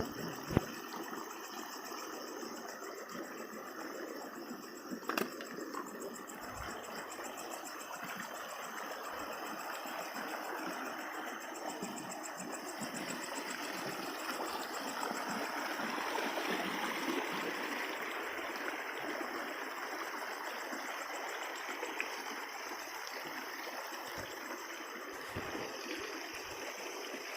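Steady rush of flowing stream water, swelling slightly in the middle, with a couple of short knocks in the first few seconds.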